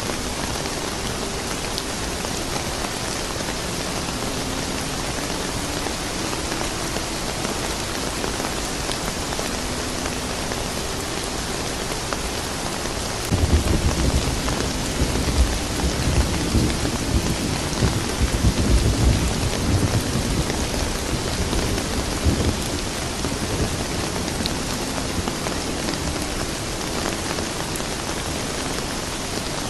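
Steady rain falling on a surface, an even hiss. About halfway through, a low rumble of thunder starts suddenly, swells for about nine seconds, then dies away under the rain.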